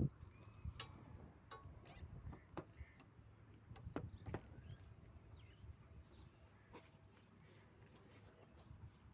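Faint outdoor ambience: birds chirping now and then, with scattered sharp clicks and taps.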